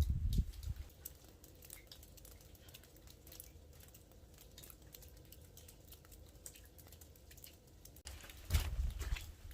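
Dry twigs crackling with scattered light clicks, and a burst of low rumbling thuds about eight and a half seconds in.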